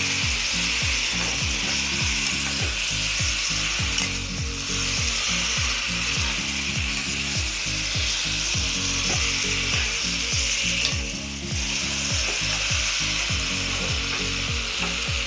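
Marinated chicken sizzling as it is sautéed in a hot pan, with a spatula stirring and scraping in a regular rhythm.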